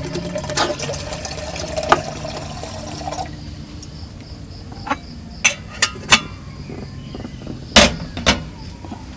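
Water pouring or filling for about three seconds, then a few sharp clinks and knocks.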